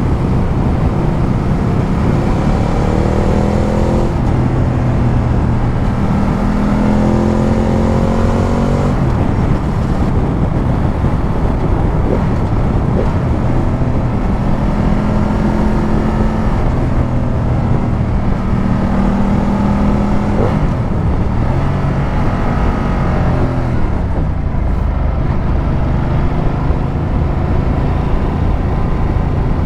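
Ducati Multistrada 1200's L-twin engine heard on the move. Its pitch climbs and drops several times as the rider accelerates, rolls off the throttle and changes gear, over a steady rush of wind and road noise.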